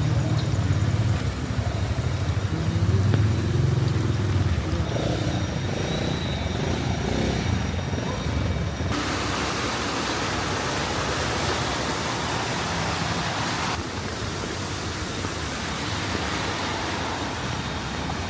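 Flooded city street: a motor vehicle's engine rumbles through the first half. A steady hiss of rain and water takes over about halfway in, loudest for several seconds and then easing.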